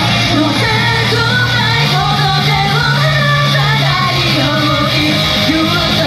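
Idol group singing a rock-pop song live over a loud band backing track with a steady bass line.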